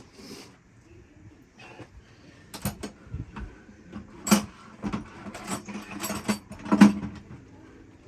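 Irregular knocks, clicks and rattles of hands and tools working on wiring and fittings in a boat's engine compartment, with two louder knocks about four and a half and seven seconds in.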